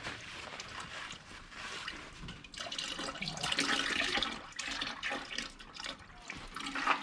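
Used engine oil pouring and dripping from the engine during an oil change, a splashing trickle that is strongest in the middle.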